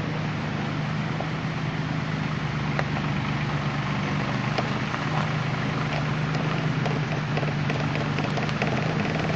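Engine of a Pixall BH-100 pea-harvesting rig running steadily, with scattered small ticks and rattles from the machinery.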